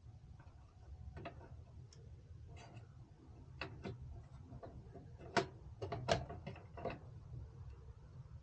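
Irregular small clicks and light knocks from computer hardware being handled during a CPU cooler installation, the two sharpest about five and a half and six seconds in, over a steady low hum.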